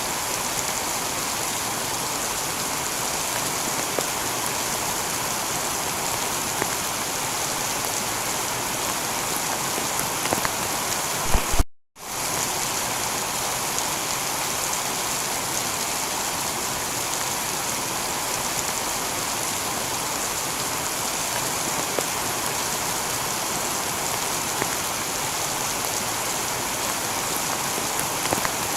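Heavy rain falling on a tiled roof, a steady dense hiss of drops. About twelve seconds in, a few sharp crackles are followed by a split-second drop to silence before the rain resumes, the seam of a looped recording.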